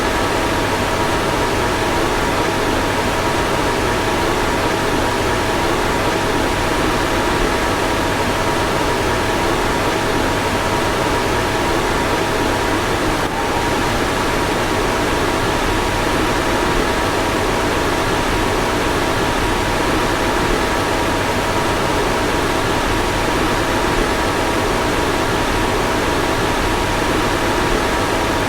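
Car fan running steadily: an even rushing of air with a faint steady two-tone hum, and one slight dip about 13 seconds in.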